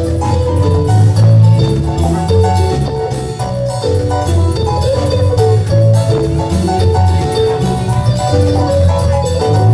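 Campursari band playing: a steady bass line and drum beat under a melody of struck, bell-like mallet notes.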